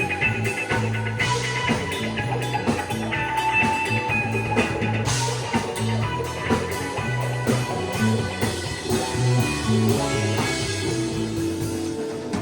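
Rock band playing an instrumental passage: guitar over a steady bass line and drum kit.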